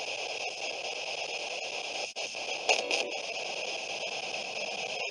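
Steady radio-like static hiss, cut by a couple of brief dropouts.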